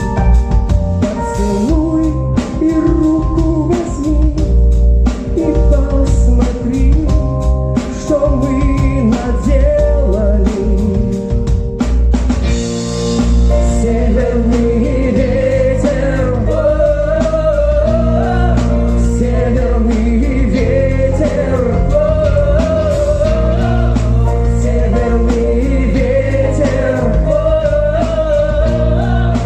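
Live band music with a drum kit and held keyboard chords. About halfway through, a wavering lead melody comes in over the band.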